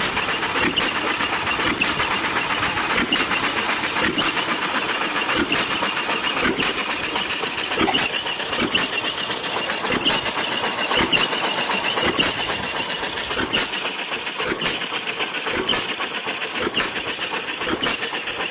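Single-cylinder hit-and-miss engine running under load, turning ice cream churns through a reduction gear: sharp beats about once a second over a continuous mechanical clatter. It holds its speed by firing only every few revolutions and coasting between.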